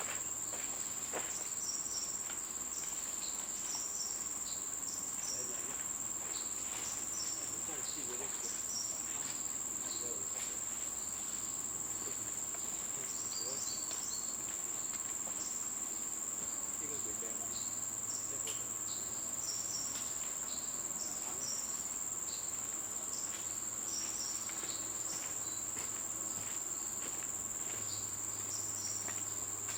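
Steady, high-pitched insect drone that holds without a break, with scattered short high chirps and soft clicks over it.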